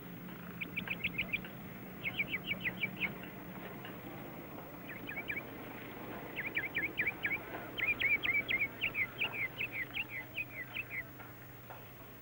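A bird chirping in rapid series of short, high, falling notes, several runs with short pauses between them and the longest run near the middle. A low steady hum runs underneath.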